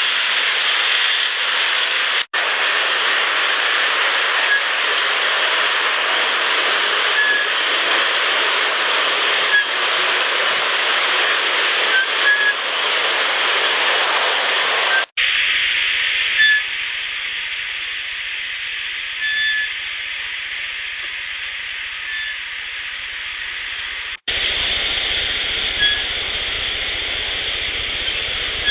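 Heavily amplified field-recorder hiss with a few faint, brief whistle tones, which the recordist takes for Sasquatch whistles. The audio cuts abruptly between separate recordings three times.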